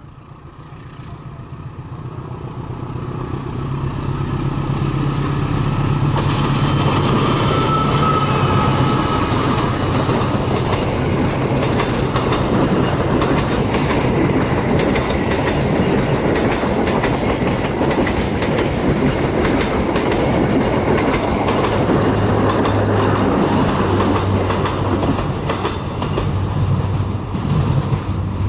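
A train passing close by at speed. The noise builds over the first four seconds, then holds steady and loud as the cars run by on the rails.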